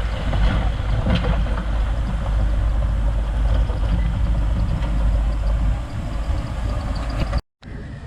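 Heavy diesel engine of a construction machine running steadily with a deep rumble and occasional sharp metallic knocks; the sound cuts off abruptly near the end.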